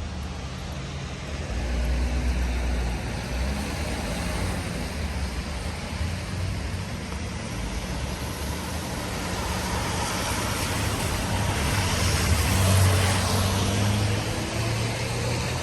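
Road traffic on a wet street: a motor vehicle's engine runs low and steady, and a tyre hiss swells and peaks about twelve seconds in as traffic passes.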